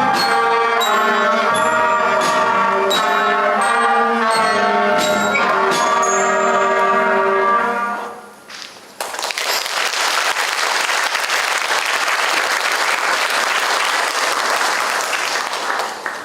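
Primary school concert band of wind and brass instruments playing the last bars of a piece, which ends about eight seconds in. After a short pause the audience applauds.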